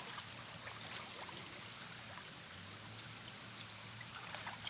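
Soft trickling and sloshing of shallow floodwater moving around people wading through it.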